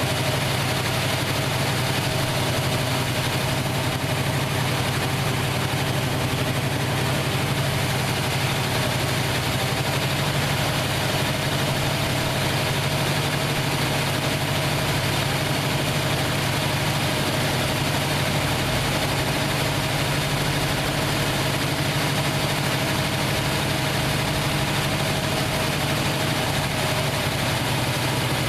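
1968 Plymouth Fury's 383 big-block V8 idling steadily after being revived from years out of action.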